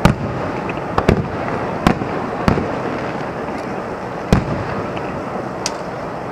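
Aerial firework shells bursting: about seven sharp bangs at uneven intervals, two in quick succession about a second in, over a steady background hiss.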